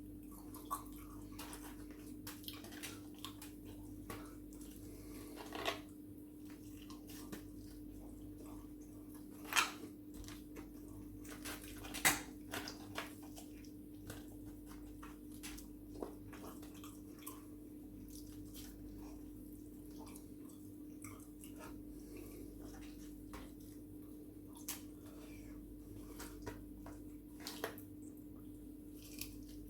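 Close-miked eating of fried chicken: scattered wet smacks, clicks and chewing sounds, the loudest about 9 and 12 seconds in, over a steady low hum.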